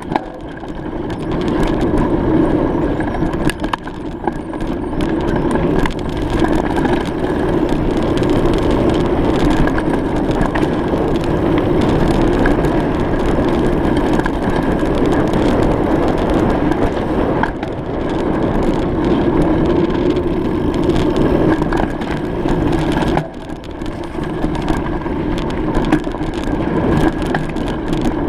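Steady rumble of a bicycle ride: wind and tyre noise on the microphone, with many small crackles and knocks, easing briefly about two-thirds of the way through.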